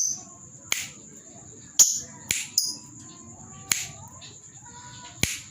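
Lovebird giving short, shrill single calls, about seven of them at uneven intervals.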